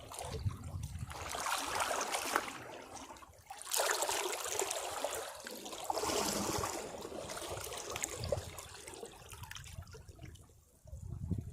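Caribbean sea waves breaking on rocks: irregular washes of water surging and draining away. A sudden loud wave strikes about four seconds in, another follows about two seconds later, and the sound fades before a low rumble of the next swell near the end.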